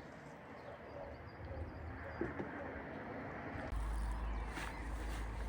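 Faint bird calls over a noisy rural background, then a deep low rumble that sets in suddenly about two-thirds of the way through and becomes the loudest sound.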